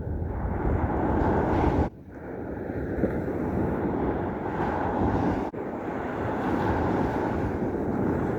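Steady rushing wind noise buffeting the microphone, broken off abruptly twice, about two seconds and five and a half seconds in.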